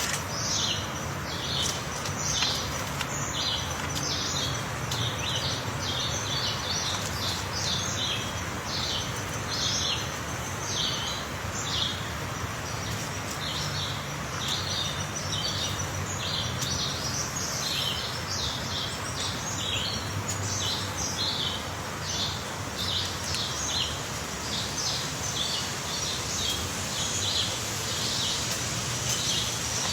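Small birds chirping: short, high calls, about two or three a second, over a steady outdoor hiss.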